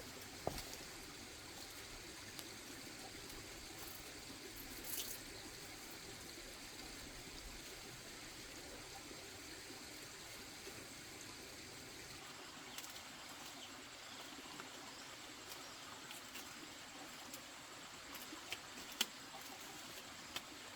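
Faint steady hiss with scattered small clicks and taps, one sharper tap near the end.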